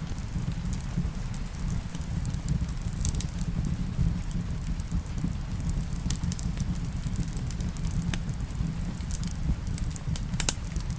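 Wood fire crackling in a fireplace, with scattered sharp pops and snaps over a steady low rumble. The loudest pop comes near the end.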